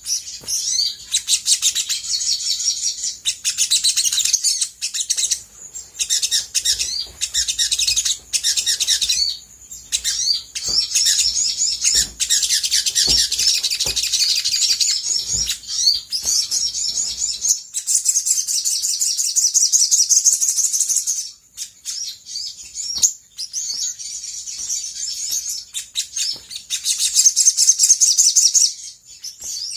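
Olive-backed sunbird singing in rapid, high-pitched trilling phrases separated by short pauses. The song thins to fainter, scattered chirps for a few seconds past the middle, then comes back strongly near the end.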